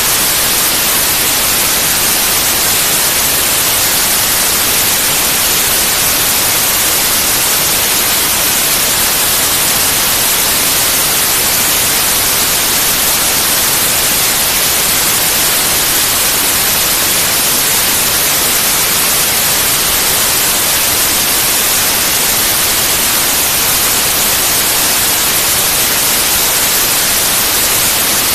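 Steady, loud synthetic white noise: an even hiss, brightest in the highs, with no change.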